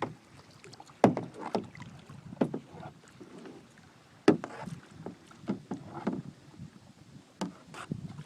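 Paddle strokes from a small paddled boat: irregular knocks and splashes of the paddle against the boat and in the water, loudest about a second in and again about four seconds in.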